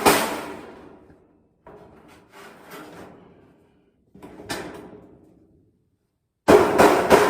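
Hammer blows on sheet-metal ductwork: one hard ringing strike at the start that dies away, quieter knocks and clatter in the middle, then a fresh run of hard strikes near the end.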